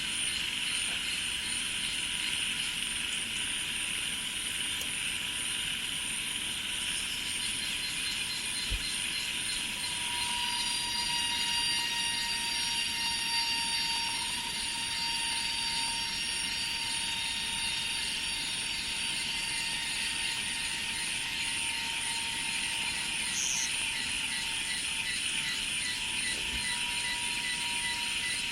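Steady night-and-day style chorus of rice-field insects such as cicadas, many trilling at once at different pitches, with a rapid pulsing high trill over a constant hiss and a few thin steady tones that join about a third of the way in.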